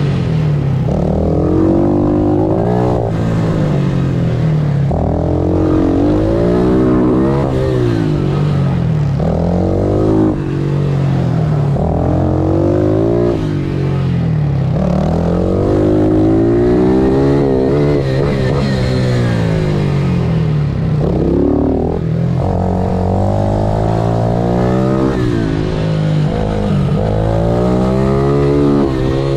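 Pit bike's small single-cylinder engine being ridden hard, revving up and falling back again and again every few seconds through gear changes and corners.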